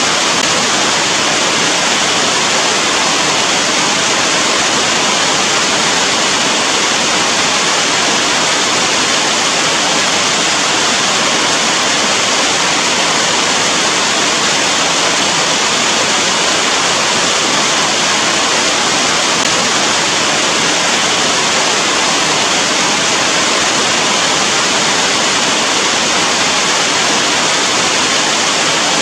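Steady heavy rain: a dense, even hiss with no separate drops or changes.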